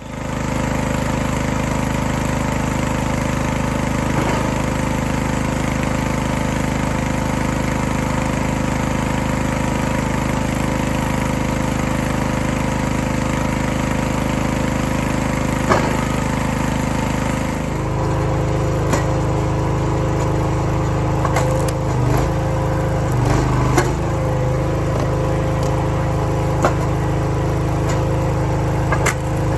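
Small gas engine of a RuggedMade RS-737 log splitter running steadily. About two-thirds of the way in its note changes and grows heavier, with scattered sharp cracks as red oak rounds are split.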